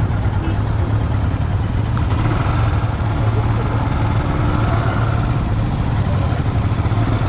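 A vehicle's engine running steadily with road noise: a constant low hum under an even rushing sound.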